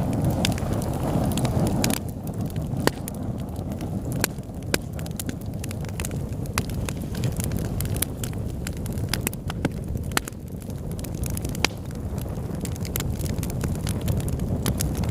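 Wood fire burning in a fireplace: a steady low rumble with frequent, irregular sharp crackles and pops, a few of them louder about three and five seconds in.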